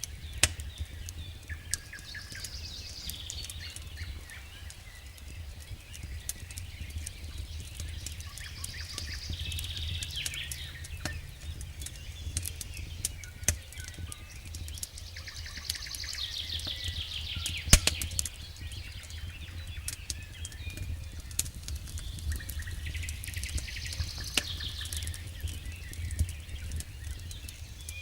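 Wood fire in a fireplace crackling, with frequent sharp pops over a steady low rumble; one louder pop comes a little past halfway.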